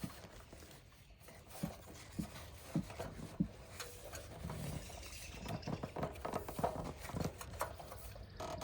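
Hand work on generator parts: four single light knocks a little over half a second apart, then a busier stretch of small clicks and rubbing in the second half.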